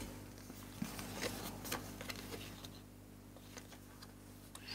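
Faint rustles and soft clicks of a tarot deck being handled, cards sliding and flicking against each other in the hands, busier in the first couple of seconds.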